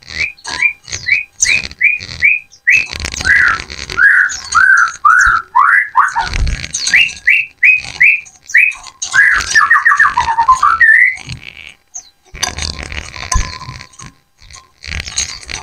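Several pleci (white-eyes) calling back and forth in whistled song: runs of short clear notes about two to three a second, some rising and some falling in pitch, with a faster warbling run about ten seconds in.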